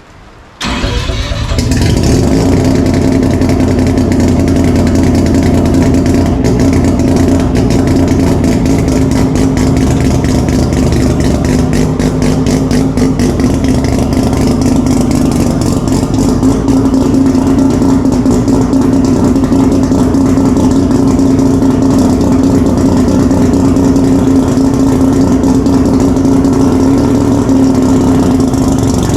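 A loud car engine comes in about half a second in and runs steadily at a fast idle, its pitch wavering only slightly.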